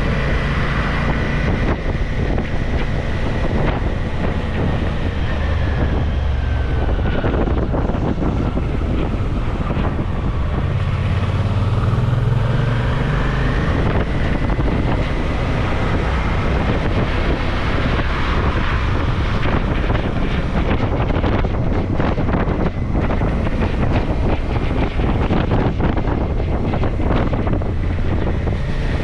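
Suzuki V-Strom motorcycle under way: engine running with heavy wind rush on the microphone, its pitch falling and rising a few times with the throttle.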